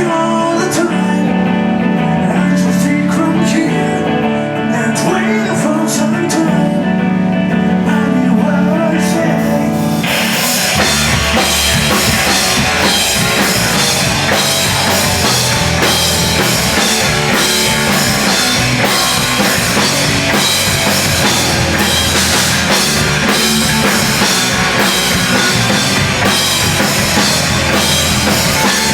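A post-hardcore band playing live: for the first ten seconds or so a guitar rings out sustained notes, then the full band with drums comes in loud and dense.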